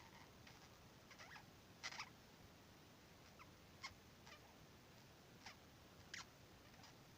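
Budgerigar giving sparse, quiet chirps and short chatter notes, about six in all, a couple of them sliding down in pitch, the loudest about two seconds in.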